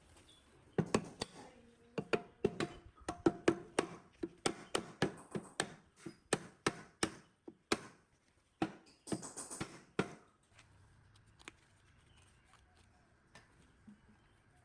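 Rapid, irregular series of sharp taps and knocks, about two or three a second, starting about a second in and stopping about ten seconds in, some with a short ring; then only a few isolated ticks.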